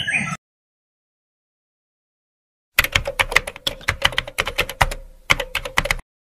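Rapid, irregular clicking like typing on a keyboard, running about three seconds with a faint steady hum beneath, then stopping abruptly. Dead silence comes before it.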